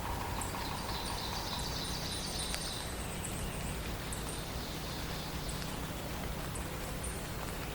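Dawn chorus of songbirds: thin high chips throughout, a higher warbled phrase over the first three seconds and a lower whistled note right at the start, over a steady low background rumble.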